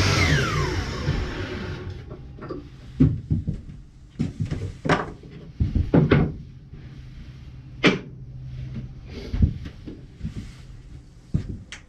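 A power saw winding down with a falling whine that fades over the first two seconds. Then a series of separate wooden knocks and clacks as cedar picket pieces and offcuts are handled and set down.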